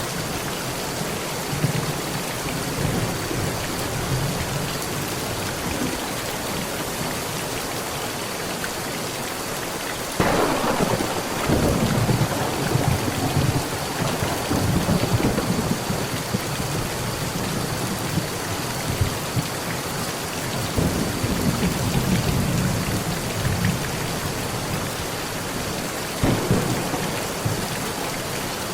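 Heavy rain on a metal roof with thunder. A sharp thunderclap about ten seconds in gives way to several seconds of low rumbling, and another clap comes near the end.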